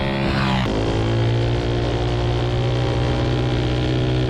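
Mini bike's small single-cylinder engine running; its pitch drops suddenly about half a second in, then it runs steadily.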